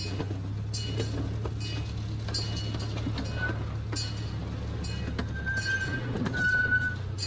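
Miniature zoo train running: a steady low engine drone with the rails clicking under the wheels, and a few short high squeals in the second half.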